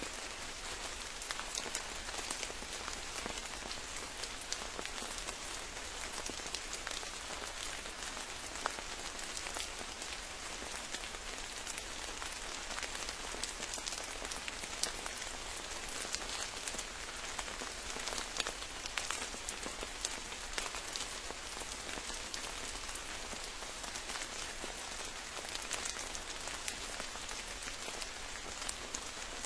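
Steady rain falling, with many separate drop hits standing out from the even hiss.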